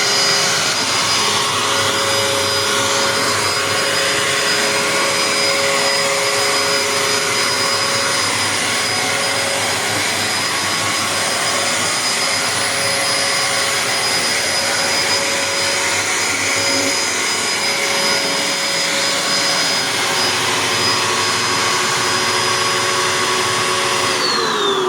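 Bissell AeroSwift upright vacuum cleaner running steadily on its bare-floor setting, a steady motor whine over the rush of air. Near the end it is switched off and the whine falls away as the motor spins down.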